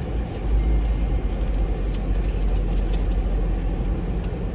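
Car running at low speed, a steady low rumble of engine and road heard from inside the cabin.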